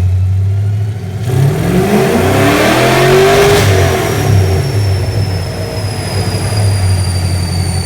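Pushrod V8 car engine running loudly at idle, revved once about a second in: the pitch climbs for about two seconds, then falls back to idle.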